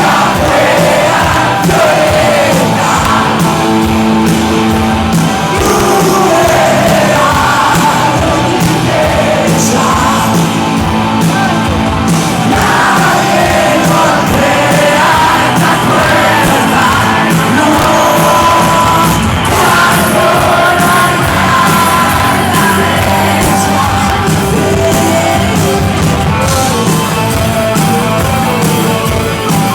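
A rock band playing live, loud and continuous, with a singing voice and some shouts over the band.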